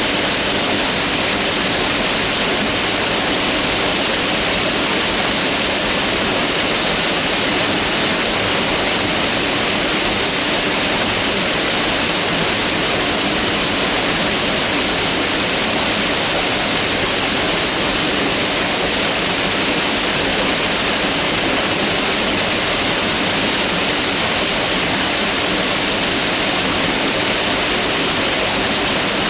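Mountain river rushing over rocks in a steady, unbroken roar of water.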